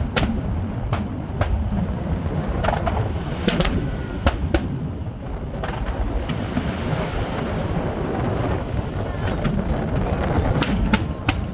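Fireworks going off: a continuous low rumble of booms with sharp cracks scattered through it, clustered around four seconds in and again near the end.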